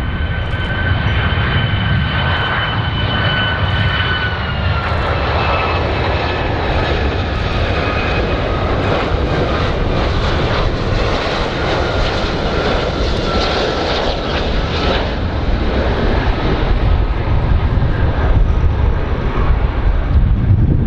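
Aircraft engines running with a loud, steady roar and a high whine that drops slightly in pitch about four seconds in.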